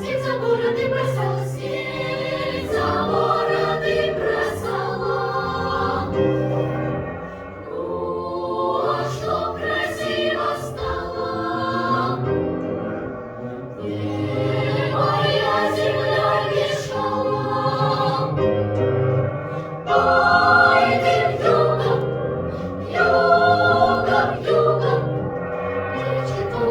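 Children's choir singing a song in Russian with instrumental accompaniment, in phrases that rise and fall in loudness.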